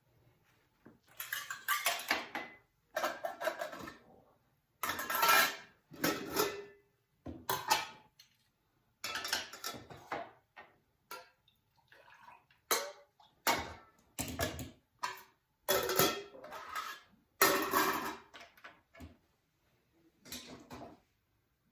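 Dishes, pots and cutlery clattering as they are handled, in a string of short bursts with brief pauses between them.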